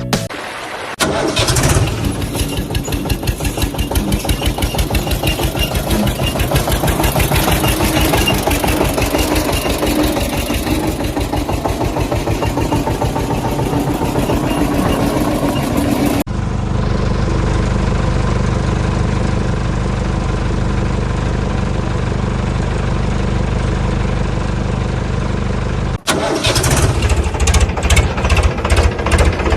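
Engine sound with a rapid, even chugging beat, in three stretches with abrupt cuts at about 16 and 26 seconds; the middle stretch is steadier and smoother.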